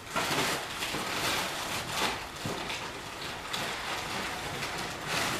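Packing material rustling and crinkling steadily as a heavily wrapped item is being unwrapped.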